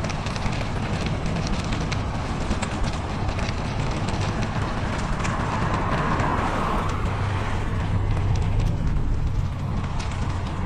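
Noise of a bicycle being ridden on a snowy winter trail: a steady low rumble with many small scattered clicks.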